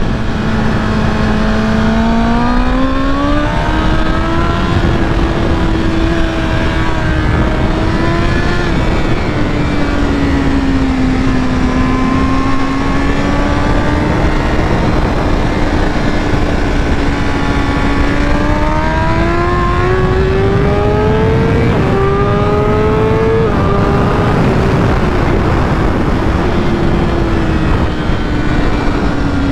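BMW M 1000 RR's inline-four engine at full speed on track, heard from onboard over wind rush. Its pitch climbs under acceleration, eases off through the middle, then climbs again with two upshifts about three-quarters of the way through.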